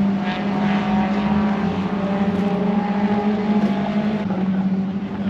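An engine running steadily with a loud, constant low drone and a stack of steady higher tones that shift slightly and fade about four seconds in.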